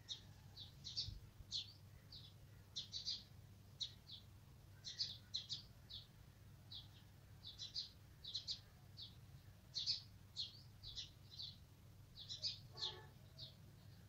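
Small bird chirping: short high chirps, often two or three in quick succession, repeating irregularly throughout, over a faint steady low hum.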